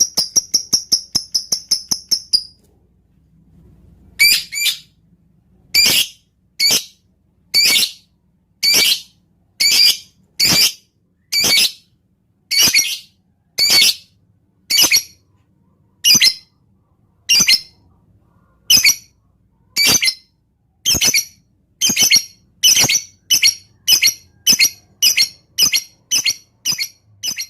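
Lovebird calling: a fast, typing-like clicking trill ('ngetik') for about two and a half seconds, then a run of single sharp, high calls, about one a second at first and quickening to about two a second near the end.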